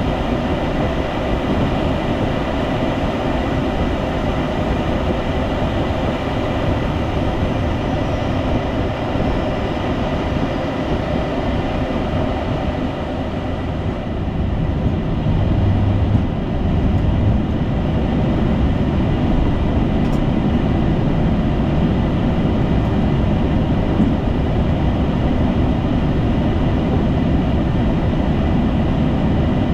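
Steady rush of airflow and engine noise on a Boeing 757-200 freighter's flight deck in the climb, with a thin steady tone running through it.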